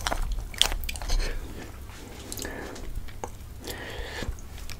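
A person biting into and chewing a momo dumpling close to the microphone: a few sharp wet clicks in the first second or so, then softer chewing.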